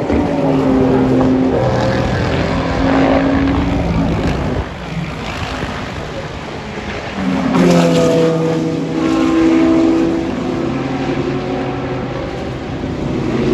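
Several race cars driving past under power, their engines holding high revs and changing pitch in steps as they shift gears. A second group of cars comes through about seven seconds in.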